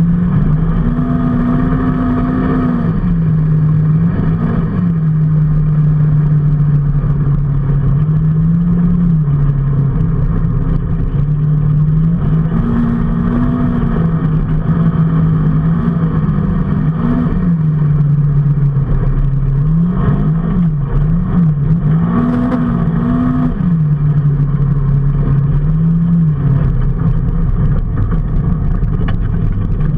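Vehicle engine running under way, its steady note rising briefly several times as the throttle opens and dropping back, over a constant rush of road and wind noise.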